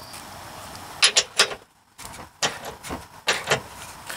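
Socket ratchet clicking in short, uneven strokes as a tow-hook mounting bolt is tightened down.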